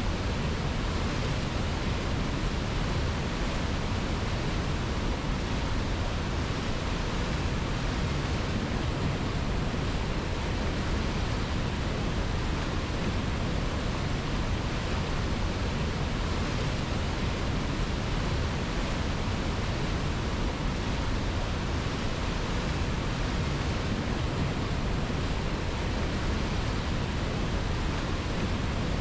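River water flowing in a steady, even rush, with no change in loudness.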